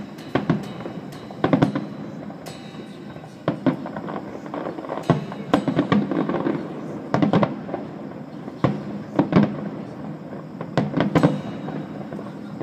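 Aerial fireworks shells bursting in an irregular volley of sharp bangs, about two a second, some coming in quick clusters.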